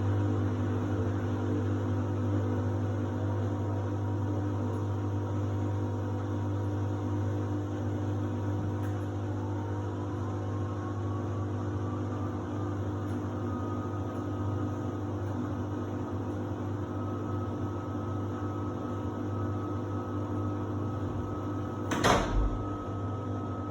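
Samsung WD70T4047CE washer-dryer running with a steady hum as it changes over to its drying stage. About nine seconds in a faint whine rises in pitch and then holds steady, and a single sharp click sounds near the end.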